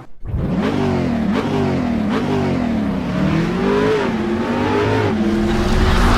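An engine revving, its pitch rising and falling several times and growing louder near the end.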